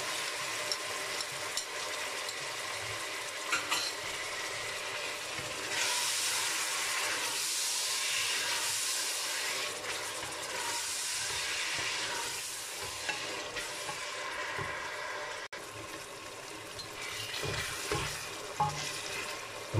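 Chopped tomatoes, onion and green chillies sizzling in hot oil in a stainless-steel pot while a plastic spoon stirs and scrapes them against the pot, with a few light knocks. The sizzle is fuller in the middle.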